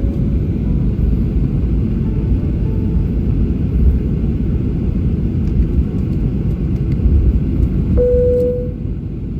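Steady low rumble inside the cabin of a Boeing 737-800 on the ground before takeoff, with its engines running as it taxis. A short single tone sounds about eight seconds in.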